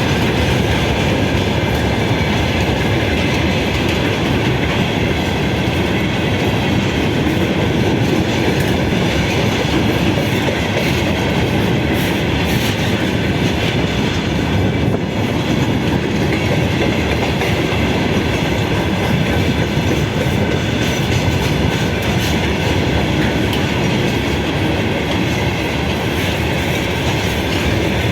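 A train passing on the rails: a loud, steady rumble of railway wagons rolling by, with no break.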